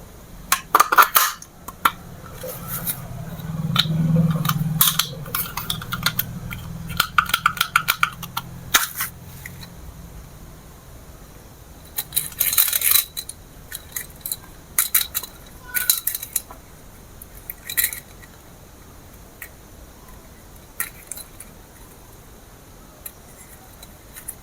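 Hard plastic parts of a toy remote-control helicopter and its packaging clicking, tapping and rattling as they are handled, in irregular bursts. A low hum runs under the clicks for several seconds in the first half.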